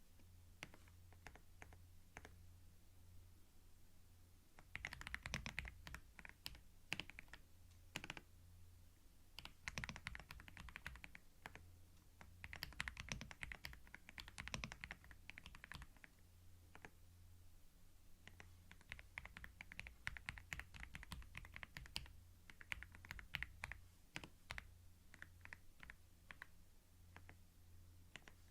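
Typing on a computer keyboard: a few scattered key clicks at first, then bursts of fast typing from about five seconds in, with short pauses between them. A faint steady low hum runs underneath.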